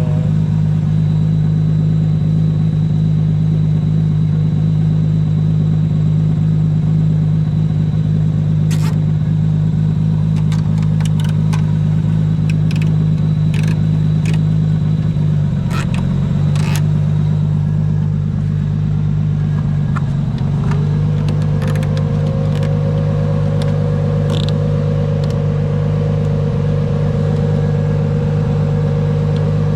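Car engine idling steadily, dipping briefly twice. About two-thirds of the way in, a steady whining tone joins it, with a few light clicks scattered throughout.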